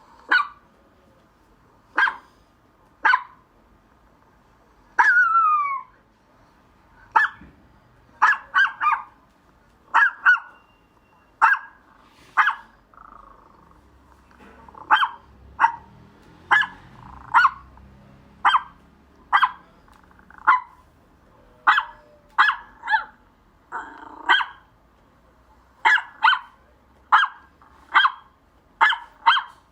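A dog barking in short, sharp single barks, irregularly spaced and sometimes in quick pairs, with one longer yelp about five seconds in that falls in pitch.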